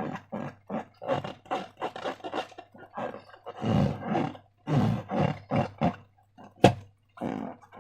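Slime being squished and worked by hand: a rapid, irregular run of wet squelches, with one sharp pop near the end.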